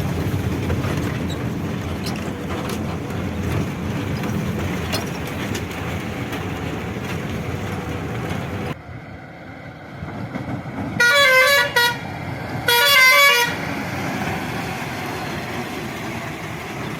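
Truck running steadily on the road. Partway through the sound cuts off suddenly, and then a vehicle horn gives two loud blasts of about a second each, close together, with a wavering multi-tone pitch.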